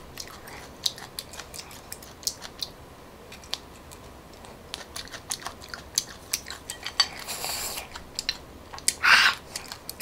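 Close-up chewing and wet mouth clicks as a coconut palm weevil larva is eaten, with wooden chopsticks clicking against a ceramic bowl. A breathy hiss about seven seconds in and a short, loud exhale near the end.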